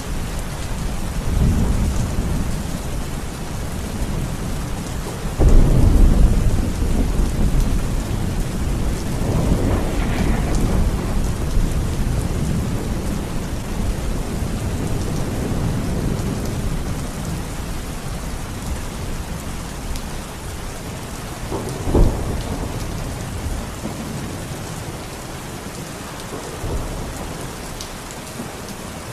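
Steady rain falling in a thunderstorm, with several low rolls of thunder, the loudest starting suddenly about five seconds in, and a short sharp thunderclap about three-quarters of the way through.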